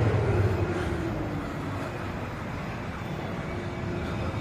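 Scania R620 truck's V8 diesel engine running with a steady low rumble. It fades over the first couple of seconds, then holds steady.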